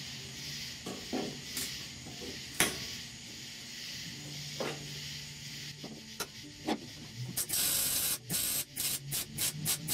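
Hand work on the truck's sheet-metal roof: scattered knocks and clicks over a steady hiss. Near the end comes a short, loud hiss, then a run of quick, even rubbing strokes, about three a second.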